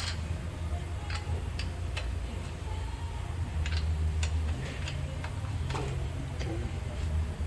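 Irregular sharp clicks and light taps, about one or two a second, over a steady low hum.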